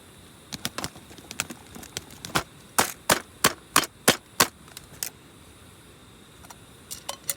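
A run of sharp knocks or clicks, scattered at first, then about seven loud ones at roughly three a second in the middle, followed by a few lighter ticks.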